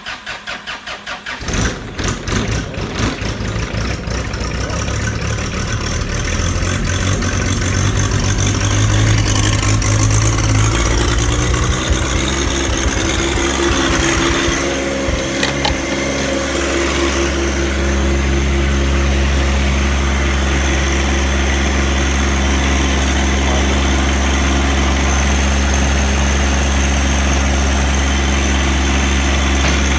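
John Deere 1025R compact tractor's three-cylinder diesel engine starting: it catches about a second and a half in, runs unevenly at first, then settles into a steady run from about halfway through.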